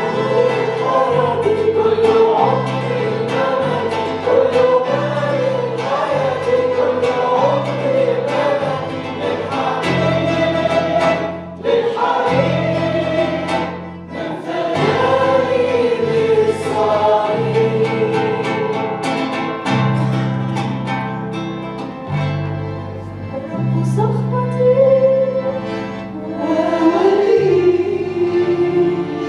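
Congregational Christian worship song: voices singing together over a band accompaniment with a bass line that changes note about once a second.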